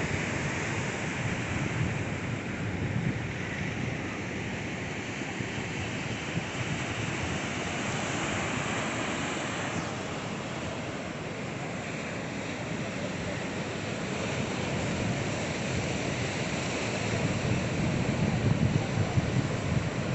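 Sea waves washing against a rocky shore, a continuous rush, with wind buffeting the microphone in low rumbling gusts that grow stronger near the end.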